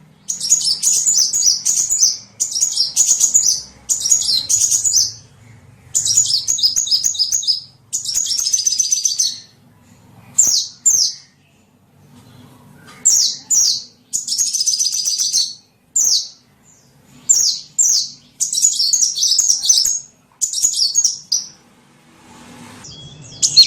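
Small-bird lure call: rapid, high-pitched chirping trills in bursts of about a second, broken by short pauses and now and then a single chirp or two.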